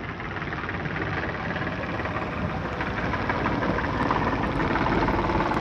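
Motor boat engine running, a steady dense churning noise that grows slightly louder.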